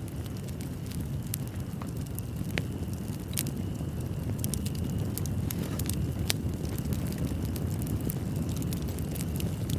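Wood fire in a fireplace crackling, sharp pops and snaps scattered over a steady low rumble of the flames.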